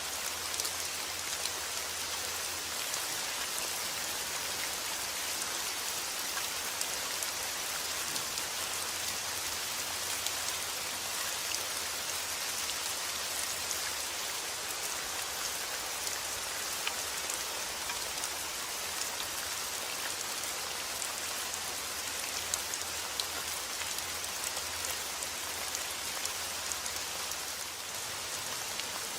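Steady rain falling on a surface, an even hiss with scattered small drop ticks throughout.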